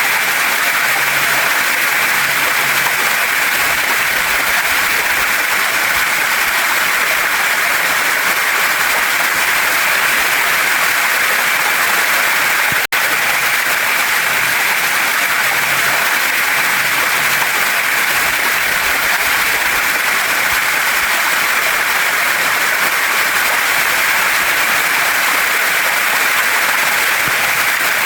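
Waterfall and mountain stream rushing steadily, a dense even hiss of falling and flowing water. The sound cuts out for an instant about thirteen seconds in.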